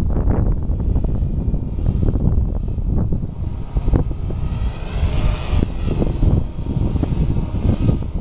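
Wind buffeting the microphone, with the high whine of a small electric RC helicopter's motor and rotor over it, loudest as it passes close about halfway through.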